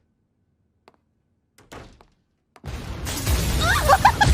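Near silence broken by a few faint knocks, then nearly three seconds in a sudden loud crash that carries on as a heavy rumble, with short high squeals over it about a second later.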